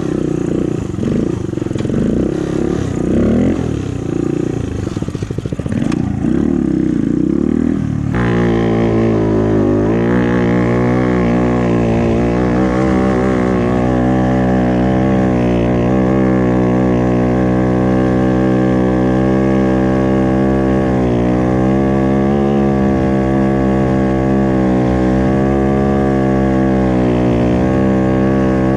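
Sportbike engines revving with rising and falling pitch. About eight seconds in this changes abruptly to one motorcycle engine held at steady, raised revs that waver only slightly.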